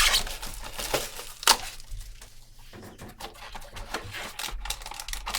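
Trading cards and their packaging being handled: a run of small clicks, taps and papery rustles.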